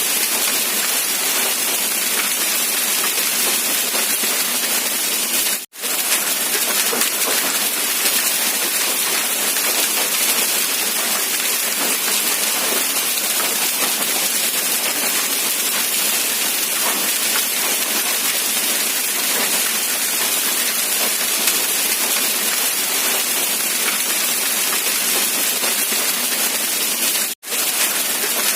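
Steady, dense rain hiss. It cuts out for an instant twice, about six seconds in and near the end.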